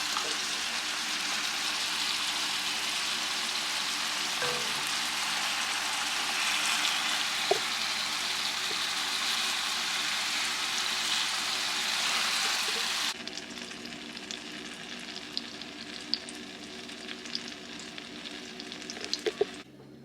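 Chicken pieces frying in hot oil in a skillet: a steady, loud sizzle that drops suddenly in level about two-thirds of the way through, then quieter sizzling with scattered pops and a few sharper crackles near the end.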